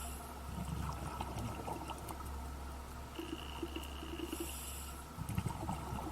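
Faint steady low hum with soft watery background noise and small scattered rustles.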